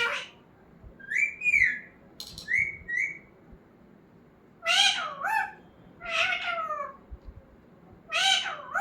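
Pet parrot calling: a few short, bending whistles in quick succession early on, then longer, louder squawky calls around the middle and again near the end.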